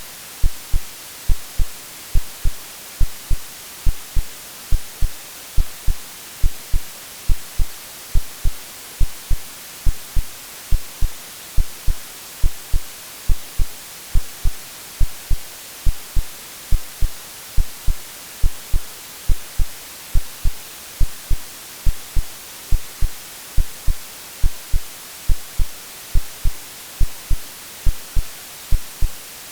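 AI-generated heartbeat sound: short, low thumps in a steady, even rhythm, over constant white-noise hiss, used to mimic the sound of the womb for soothing a baby to sleep.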